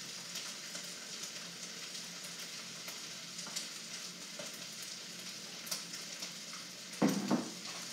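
Duck fried rice frying in a hot oiled wok: a steady sizzle, with a brief louder sound near the end.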